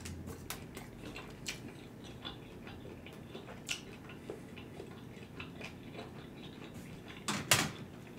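Close-miked chewing of a mouthful of stir-fried noodles: irregular soft, wet mouth clicks and smacks, with a louder smack of the lips near the end.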